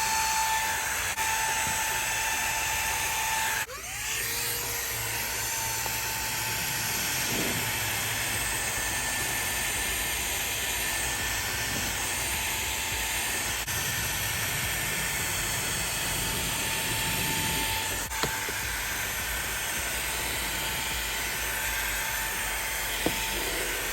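Xiaomi Mi Vacuum Cleaner mini handheld vacuum running steadily: a high-pitched motor whine over the hiss of rushing air, with a brief drop in level about four seconds in.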